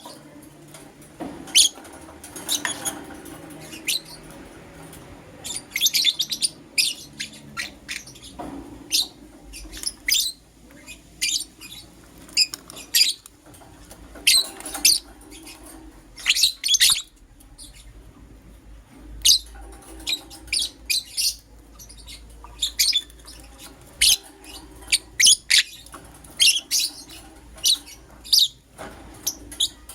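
Pet lovebirds chirping: short, sharp, high-pitched calls in quick clusters, repeated throughout with brief pauses.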